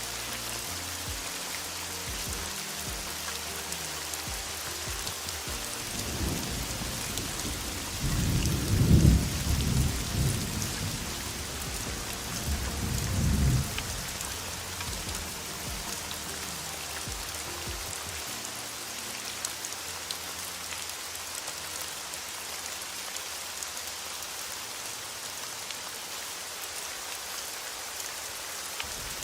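Steady heavy rain hissing throughout, with thunder rumbling low and loud from about six to fourteen seconds in, strongest about nine seconds in.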